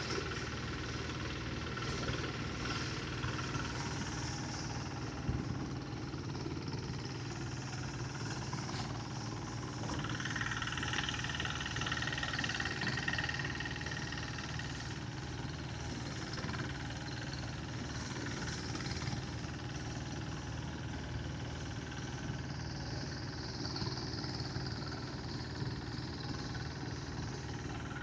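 Engine-driven rice threshing blower running steadily: a low, even engine drone with a hiss above it.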